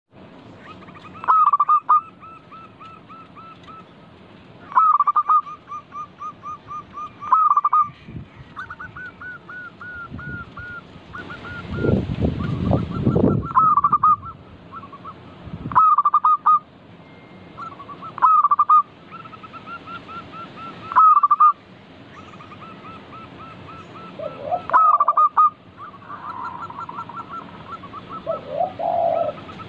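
Zebra dove (perkutut) cooing: phrase after phrase, each opening with a loud note and running on in a quick string of softer repeated notes, a new phrase every few seconds. A louder rough noise comes about twelve seconds in.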